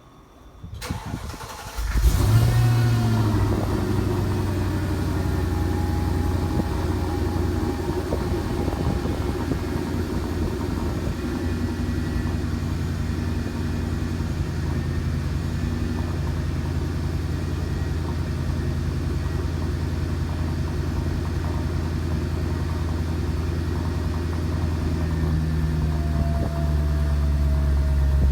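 Mercedes-Benz E55 AMG's 5.4-litre V8 cold-starting after sitting for six days: a brief crank, the engine catches about two seconds in with a short rev flare, then settles into a steady idle. The idle note shifts and grows a little louder near the end.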